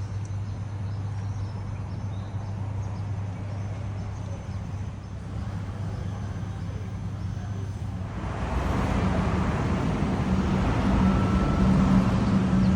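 Motor vehicle engine running with a steady low hum, growing louder and fuller about eight seconds in.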